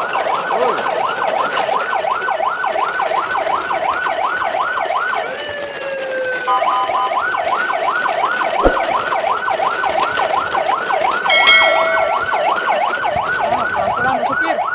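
An electronic yelp-style siren wailing rapidly up and down, about three sweeps a second, with a short break about a third of the way in where a slower falling tone sounds, and a brief beep-like tone near the end.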